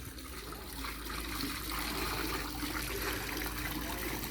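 Steady background hiss with a faint, even hum underneath.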